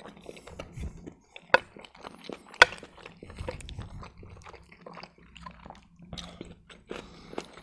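Close-miked chewing and wet mouth sounds of a man eating a breaded chicken Kiev cutlet and macaroni, with spoon scrapes on the plate. Two sharp clicks, about a second and a half and two and a half seconds in, are the loudest.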